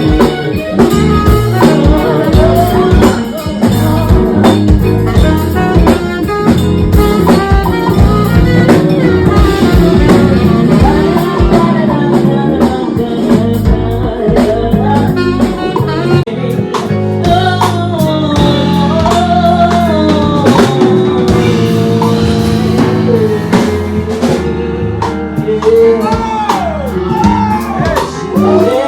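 Live band music: a singer's voice over a drum kit and backing instruments, with a steady beat.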